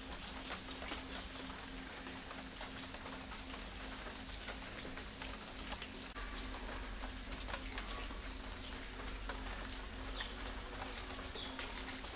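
Light rain pattering steadily with many small scattered drips, over a faint steady low hum.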